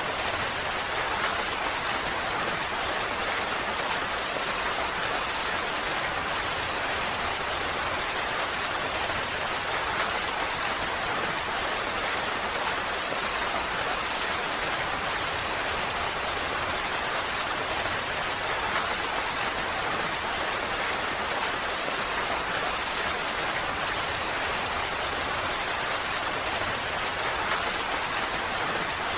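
Steady rainfall: an even hiss of rain with a few faint drop ticks, unchanging throughout.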